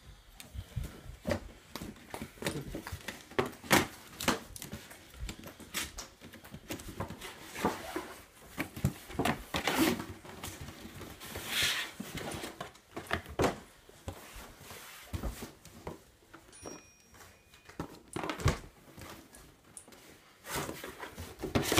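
A toy's cardboard box and packaging being handled and opened: scattered knocks, clicks and brief rustles of cardboard and plastic.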